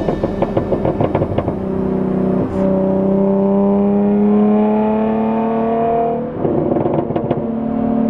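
Muffler-deleted 3.0-litre supercharged V6 of a 2017 Jaguar F-Type under way: the exhaust crackles at first, then its droning note rises steadily in pitch under acceleration for several seconds, drops back with a burst of crackle about six seconds in, and settles into a steady drone.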